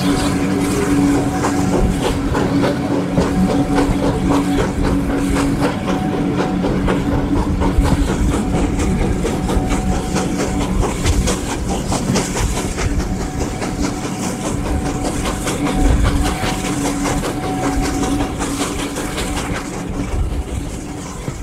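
Train running along the track, its wheels clattering over the rails, with a steady hum and hiss. The sound starts to fade near the end.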